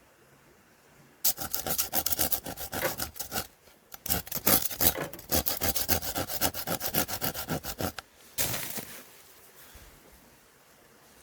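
Quick, rhythmic rasping strokes on wood, in three runs: from about a second in, again after a short pause, and a brief last run near the end, then they stop.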